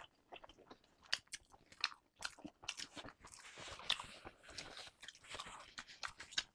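Faint close-miked chewing of steamed chicken momos: soft wet mouth smacks and lip clicks scattered throughout, with a brief soft rustle a little past the middle.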